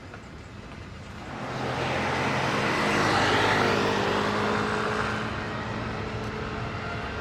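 A vehicle passing close by: a noise with several steady tones swells over about a second, peaks, then eases to a steady hum.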